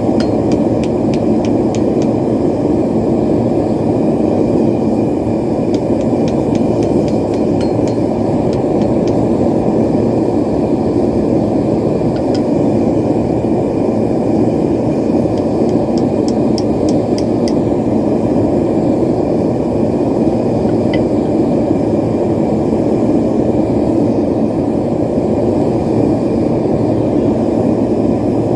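Propane forge burner running loud and steady. Faint light clicks sound now and then over it in a few short runs.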